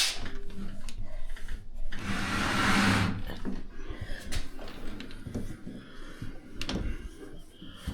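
Washing machine being shoved across the floor: a scraping noise lasting about a second, starting about two seconds in, among scattered knocks and bumps.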